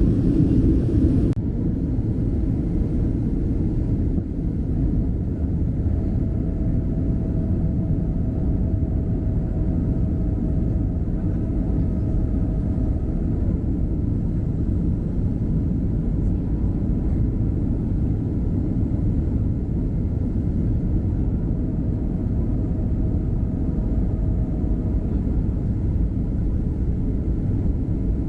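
Airliner cabin noise in cruise: a steady low rumble of the Boeing 737's jet engines and rushing air. A brighter hiss cuts off about a second in, and a faint steady tone comes and goes twice.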